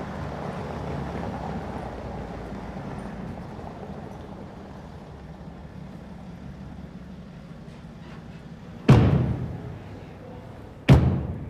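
Steady low drone of a car interior while driving, slowly fading, broken by two sudden loud thumps about two seconds apart near the end.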